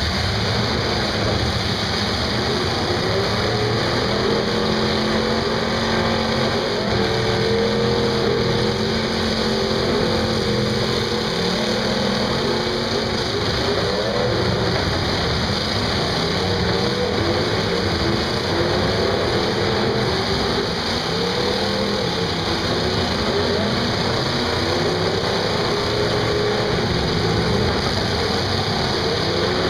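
Several demolition-derby cars' engines running at once, revving up and down in overlapping pitches, a steady loud mass of engine noise.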